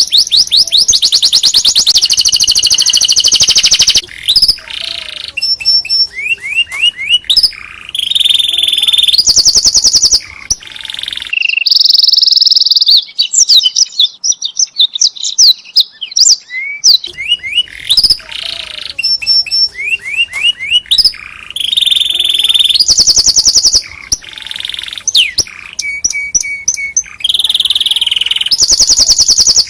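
Domestic canary singing a long song of fast, high trills and rapid repeated notes, broken into phrases with short rising whistled glides between them.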